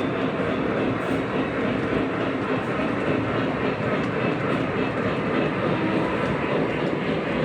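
Model train running along the track: a steady rumble of wheels and motor with a faint hum.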